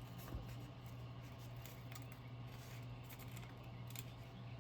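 Faint handling of paper crafting materials: scattered small clicks and rustles over a steady low hum.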